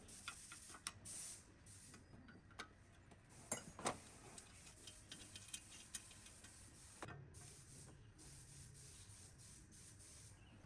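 Faint scattered clicks and light taps, the loudest pair about three and a half to four seconds in, over a faint low hum.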